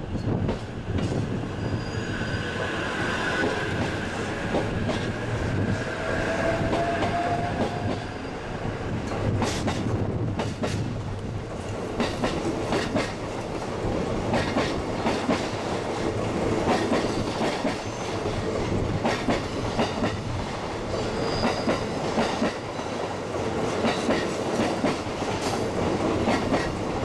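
JR East E353 series electric train rolling past along the platform, its wheels clattering over rail joints. A faint whine rises in pitch about a quarter of the way through.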